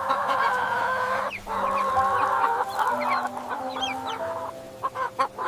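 Chickens clucking, several calls overlapping, with a brief lull about a second and a half in and sparser calls near the end.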